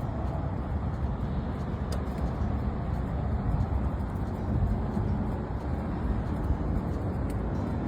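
Harley-Davidson V-twin motorcycle engine running with a steady, noisy low rumble.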